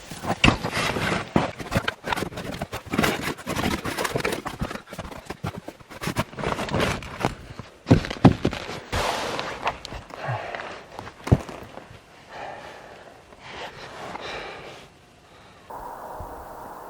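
Irregular crunching strikes and scrapes in snow, dense at first and thinning out, then a cut near the end to a steady hiss.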